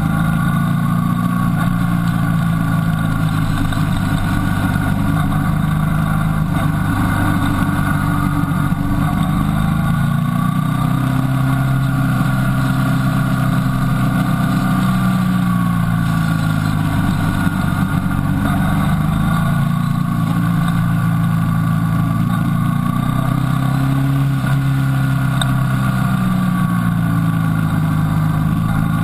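Motorcycle engine running under way on the rider's own bike, its revs rising and falling every few seconds through the bends, over a steady low rush.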